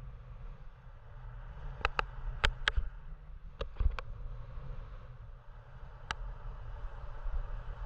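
Wind buffeting the microphone in flight, a steady low rumble. A run of sharp clicks comes between about two and four seconds in, and one more near six seconds.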